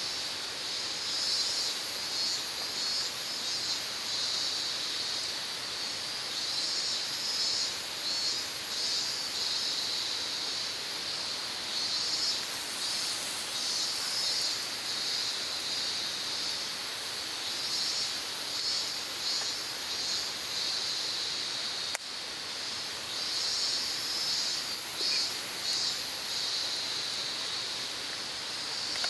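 Insects chirring in a continuous high-pitched chorus that swells and pulses unevenly, with a single click about three quarters of the way through.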